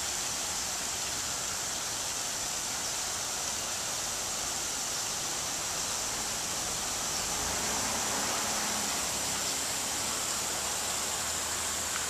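Steady outdoor hiss, with a car driving past in the second half: a swell of tyre and engine noise with a low rumble that builds from about halfway and fades near the end.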